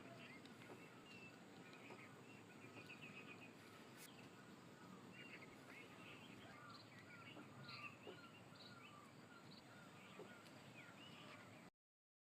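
Faint birdsong: many small birds chirping and twittering in short quick trills over a low steady hiss. It cuts off abruptly near the end.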